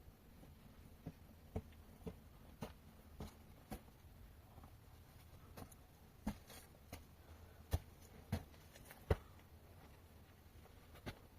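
Scattered light knocks and clicks at an irregular pace, roughly one a second, over a faint steady hiss.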